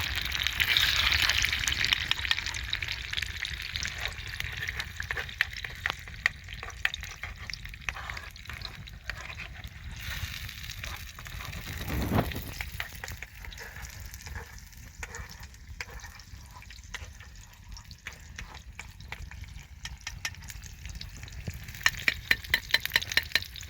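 Food sizzling and crackling as it fries in a pan, being stirred, with the hiss loudest in the first few seconds. A dull thump comes about halfway, and a quick run of sharp clicks near the end.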